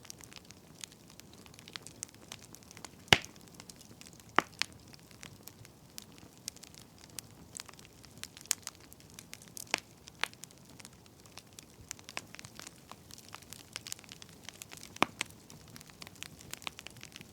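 Burning firewood crackling: irregular sharp pops and snaps over a soft hiss, the loudest pop about three seconds in.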